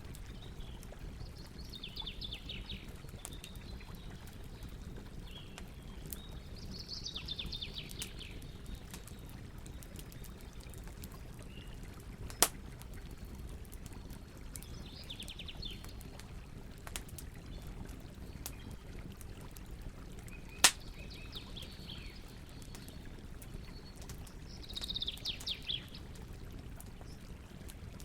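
Campfire burning with scattered crackles and two loud sharp pops, about twelve and twenty seconds in. Birds chirp in short repeated phrases in the background.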